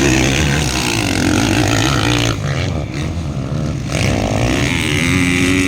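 Motocross dirt bike engines racing, the engine note rising and falling as the riders accelerate and ease off.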